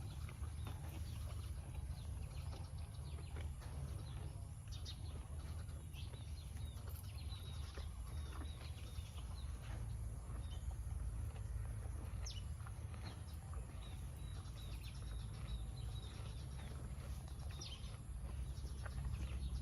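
Birds chirping in short, scattered calls over a steady low rumble and a constant high-pitched drone.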